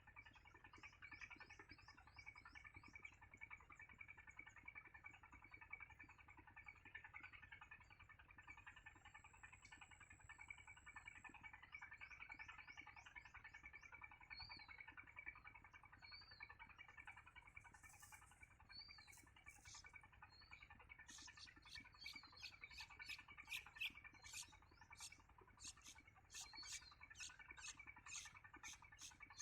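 Faint, high-pitched chirps and cheeps of small birds at a nest, over a steady hiss. A run of quick clicks comes in the last several seconds.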